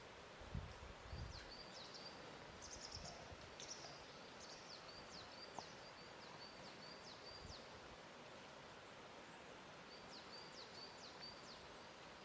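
Faint lakeside ambience: a soft steady hiss with a small bird chirping in quick repeated series, twice, and a few soft low thumps of water lapping at the shore.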